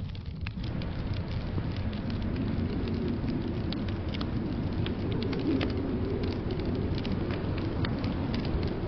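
Wood fire crackling in a fireplace, with scattered sharp pops over a steady low rumble of storm noise.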